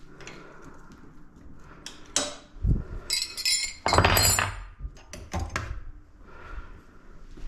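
Hand tools and metal engine parts clinking and knocking during work on a dirt bike engine, with a longer run of metallic clatter and rattling a few seconds in.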